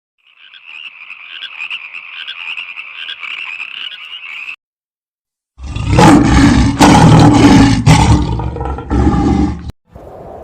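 Two separate animal calls: first a high, continuous trilling for about four seconds, then, after a second of silence, a loud, low roaring for about four seconds.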